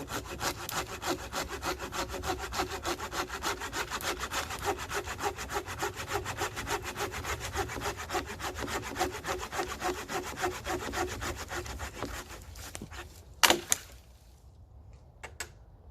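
Hand saw cutting through a seasoned log from a fallen tree, in quick, even back-and-forth strokes that stop about twelve seconds in. About a second later comes one sharp, loud crack of wood.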